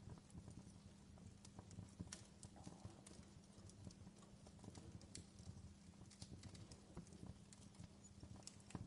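Fireplace crackling: irregular small pops and snaps of burning wood over a steady low rumble of the fire.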